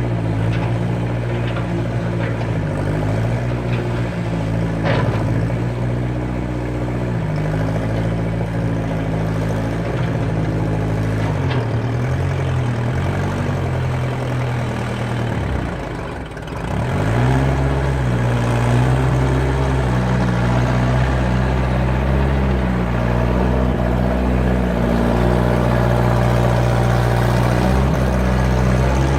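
Skid steer loader engine running steadily under work, its revs shifting up and down; about halfway through the engine note dips briefly, then picks back up and holds higher. A few faint knocks sound over it.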